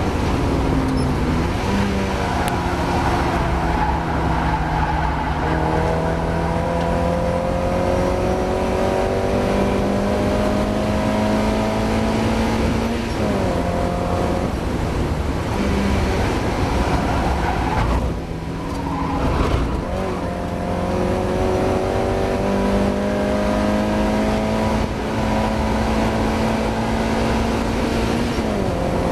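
Mazda MX-5's four-cylinder engine at racing speed, pitch climbing slowly in long pulls under load, with sharp drops at gear changes or lifts and a brief dip with quick blips about two-thirds of the way through as the car brakes and downshifts. The car is racing with a misfire.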